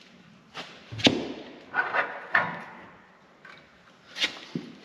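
A series of sharp metal knocks and clanks, about half a dozen with uneven gaps and the loudest about a second in, as a steel pivot bolt is worked through the new boom bushing of a Bobcat T250 skid steer.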